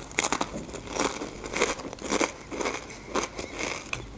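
Close-miked chewing of crunchy Doritos tortilla chips, a sharp crunch about twice a second.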